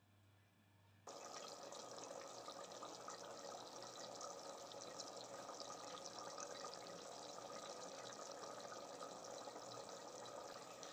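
Faint, steady sizzling of chicken mince frying in oil in an open clay pot (handi), starting about a second in.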